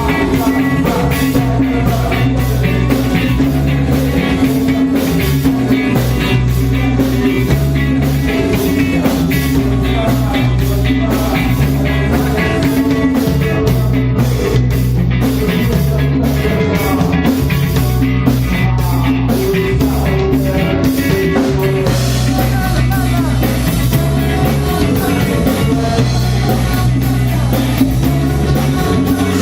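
A band playing rock music with a steady drum beat, bass and guitar, and a voice singing over it.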